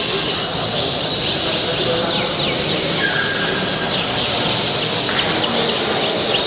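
Many songbirds chirping and singing at once, a dense run of quick falling chirps and whistles over a steady background hubbub.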